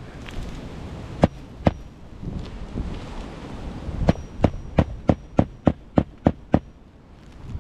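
Hammer driving roofing nails into shingles: two separate blows in the first two seconds, then a quick run of about nine blows, roughly three a second, each with a short metallic ring.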